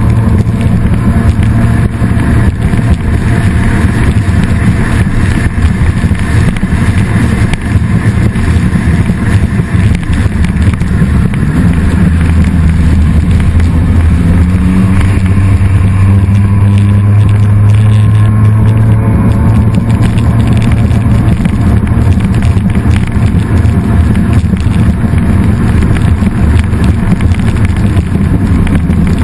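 Jet ski engine running loudly and steadily at speed, its pitch rising and falling a little about halfway through.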